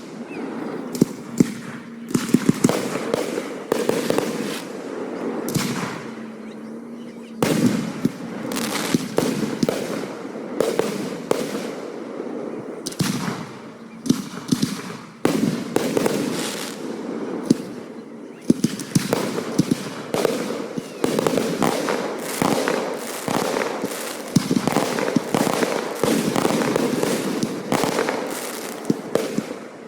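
Fireworks display: a rapid, almost continuous run of shell bursts and crackling, with a short lull about six seconds in.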